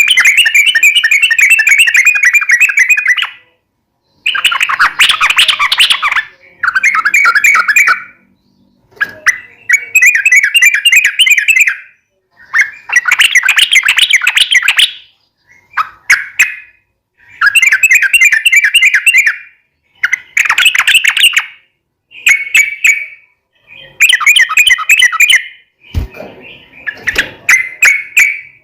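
Yellow-vented bulbul (trucukan) singing loud, bubbling phrases of rapid chattering notes, each lasting one to three seconds, repeated after short pauses.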